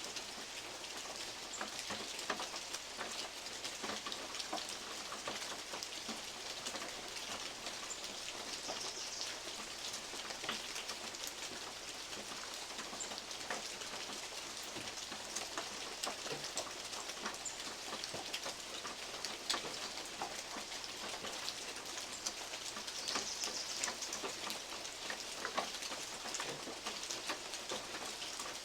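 Steady rain with big drops falling from oak leaves onto a metal roof: a constant hiss dotted with many sharp, irregular taps.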